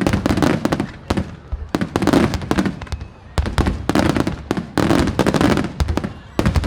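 Aerial fireworks shells bursting in rapid clusters: many sharp bangs and crackles one after another, with a low rumble between the volleys.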